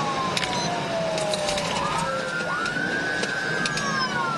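Police car siren wailing over road and engine noise from the pursuing cruiser: a long falling tone that sweeps back up about two and a half seconds in, holds, then starts falling again near the end. A few sharp clicks are scattered through it.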